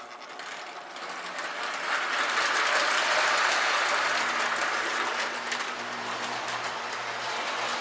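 K-Line three-rail O-gauge toy train with an S2 diesel switcher running on the track: the motor whirs and the wheels clatter over the rails, with a steady low hum. It grows louder over the first two seconds as the train comes closer, then runs steadily.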